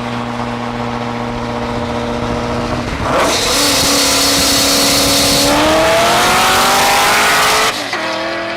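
V8 car engine held at steady revs, then about three seconds in it goes to a loud full-throttle pull, its pitch climbing for about four seconds before it cuts off sharply near the end.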